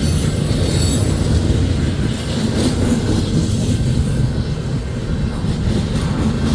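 Freight cars of a passing train rolling by, a steady rumble of steel wheels on the rails.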